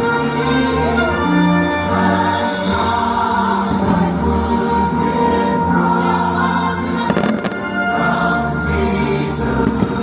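Fireworks-show soundtrack of orchestral music with a choir singing, with a few firework bursts over it.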